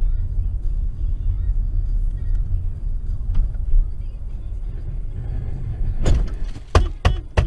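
Car on the road, recorded by a dash camera: a steady low rumble, then about six seconds in a quick run of loud bangs and knocks.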